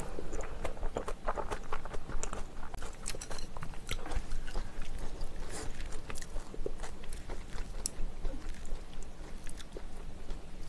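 A person chewing food close to the microphone: a continuous run of quick small mouth clicks and smacks.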